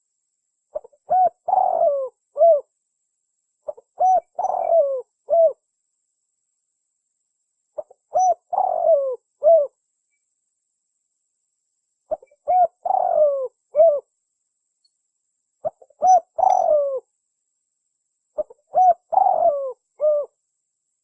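Spotted dove (tekukur) cooing: a phrase of a few short coos around one longer, falling middle note, given six times with pauses of a few seconds between.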